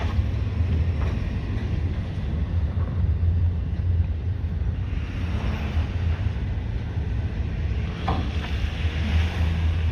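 Freight train cars rolling past a grade crossing: a steady low rumble with a rushing noise over it.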